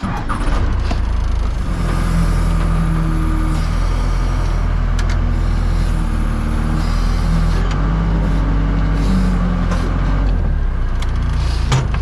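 Wood-Mizer LT50 sawmill's engine running under hydraulic load while its log turner rolls a heavy redwood log. A tone above the engine drone steps up and down several times as the controls are worked, with a sharp knock near the end.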